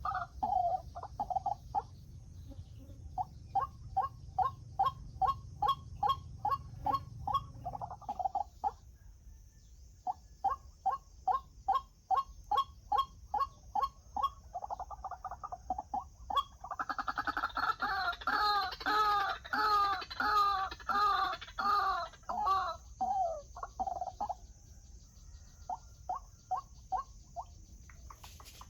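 White-breasted waterhen calls: long runs of evenly repeated notes, about two or three a second, broken by a couple of short pauses. Near the middle there is a louder, fuller stretch of overlapping calls.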